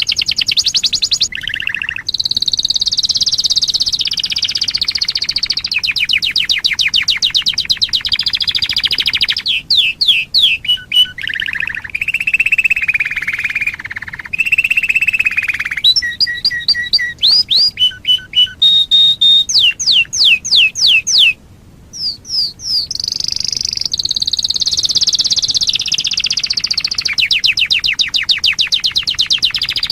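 Domestic canary singing a long, loud song: fast rattling trills, then a run of quick separate whistled sweeps and held notes, a short break about two-thirds through, then fast trills again.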